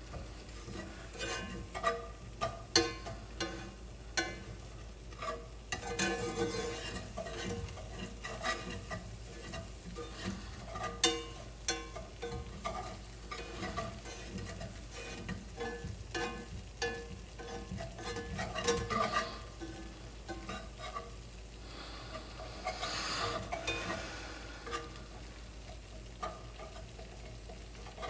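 A whisk stirring a butter-and-flour roux in a skillet, with irregular clicks and taps against the pan over a light sizzle, as the roux cooks toward golden.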